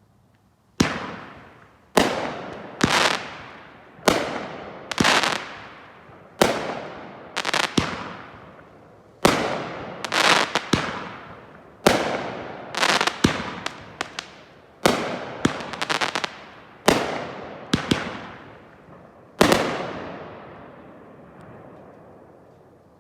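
Small 1-inch, 9-shot consumer firework cake firing: a series of sharp bangs, some in quick pairs, each trailing off in a long echo. The last bang comes about three seconds before the end, and its echo fades out.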